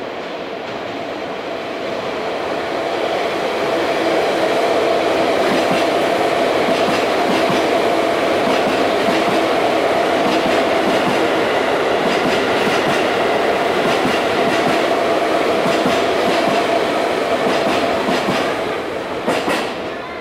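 Keisei AE-series Skyliner electric train running through a station without stopping. Its running noise grows louder over the first few seconds, then holds steady with repeated wheel clacks as the cars pass. It drops away near the end.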